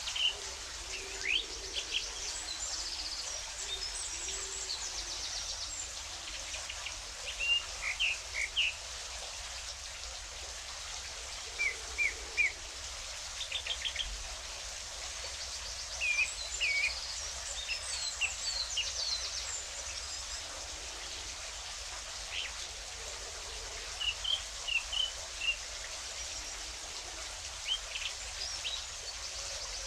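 Several birds chirping, with short high calls and quick trills every second or two, over a steady hiss of water.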